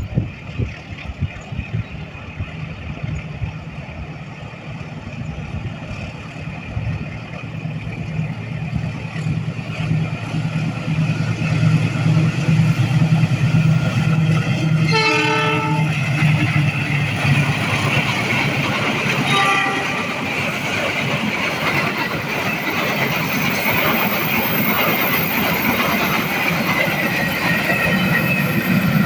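Diesel locomotive running past on its rail line, its engine humming, with the horn sounded once about halfway through; then the rushing and rolling of the train's cars going by.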